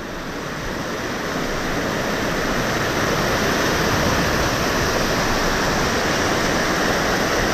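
Rushing water of a cascading mountain stream or waterfall: a steady, even roar that swells over the first three seconds and then holds.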